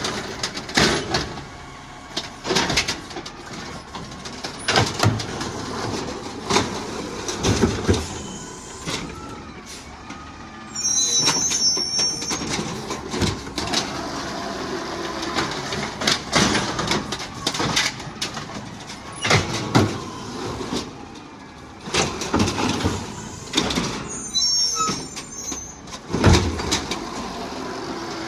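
Garbage truck working a collection route: the engine runs under repeated sharp bangs and clatter, typical of bins being dumped into the hopper. A brief high squeal comes about eleven seconds in and again near the end.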